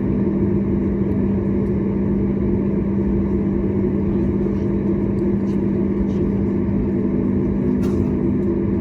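Steady drone of the Boeing 737 MAX 8's CFM LEAP-1B jet engines heard inside the passenger cabin: a low rumble with a steady hum, unchanging throughout. A faint click near the end.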